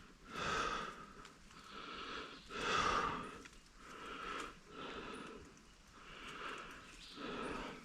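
A runner's heavy breathing, about one breath a second, in a steady rhythm of noisy puffs.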